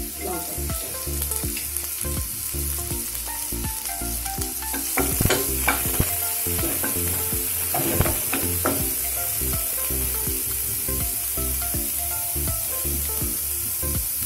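Chopped onion, garlic, ginger and green chillies sizzling in olive oil in a non-stick kadai. They are stirred with a wooden spatula that scrapes and knocks against the pan a few times, about five and eight seconds in.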